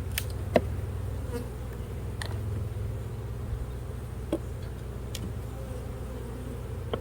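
Honeybees buzzing around an open hive as a steady low hum, with a few sharp clicks scattered through it.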